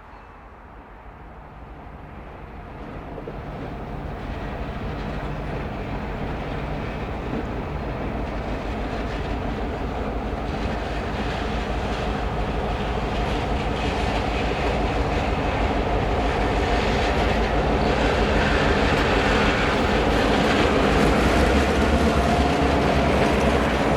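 Diesel locomotives of a freight train coming nearer, the engine drone and rail noise growing steadily louder.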